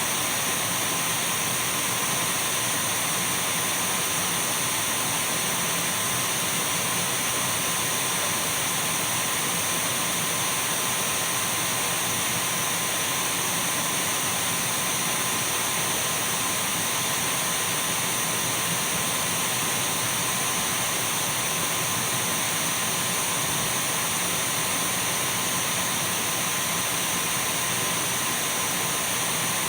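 Dyson V12 cordless stick vacuum cleaner running steadily: an even airflow hiss with a thin, high-pitched motor whine, unchanging throughout.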